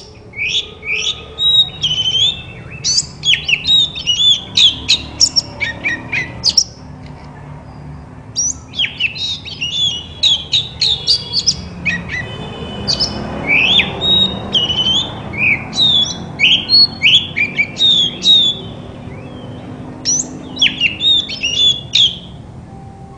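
Oriental magpie-robin (kacer) singing: loud bouts of varied whistles, sharp chirps and rapid note runs, with two short breaks between bouts.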